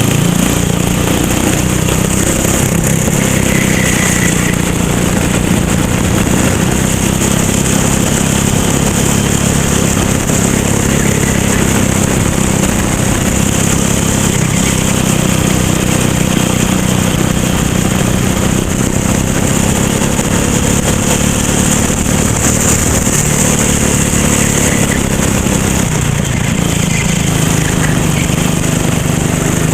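Racing kart engine running hard on track, its note holding steady, then dropping briefly near the end before picking up again.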